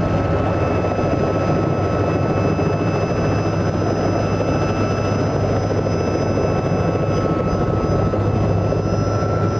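Robinson R66 turbine helicopter running steadily. A loud, even drone of rotors and Rolls-Royce RR300 turboshaft engine, with constant high whining tones from the turbine over it.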